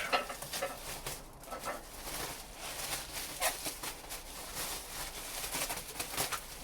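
Plastic bin bag rustling and crinkling as it is handled, with scattered light knocks and clicks.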